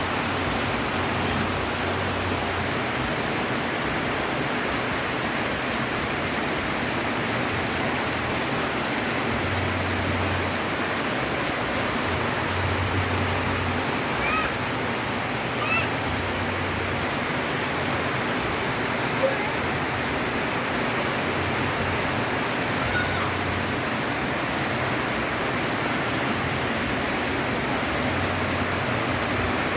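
Steady, even rain. A few short, faint chirps rise above it midway through.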